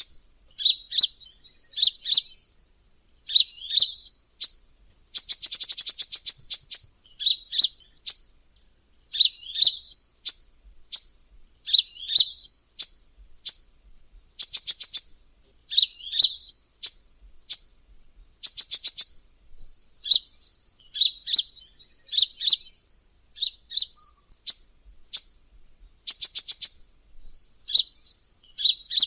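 Sunbird (Indonesian 'kolibri') calling in repeated high-pitched phrases: fast ticking trills alternating with short sweeping chirps, about one phrase a second, the kind of call played as a lure to attract these birds.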